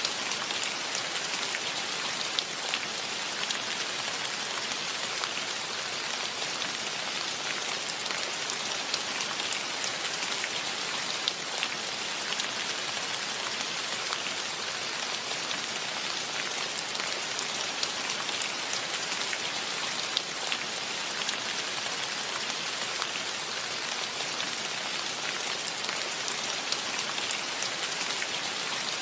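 Steady rain falling: an even hiss with scattered close drops ticking.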